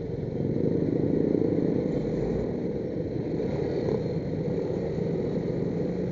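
Heavy road traffic: motorcycle and car engines running in a steady low rumble, swelling a little about a second in.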